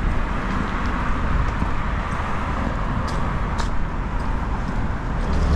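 Street noise: a steady hiss of car traffic going by, with a couple of faint ticks about three seconds in.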